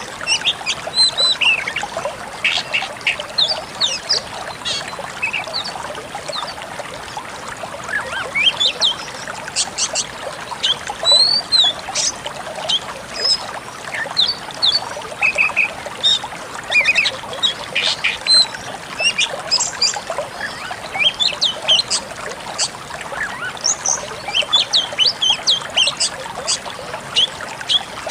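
Pied bushchat (decu kembang) song: a fast, continuous string of short chirps, sharp notes and quick whistled slurs, over a steady background hiss.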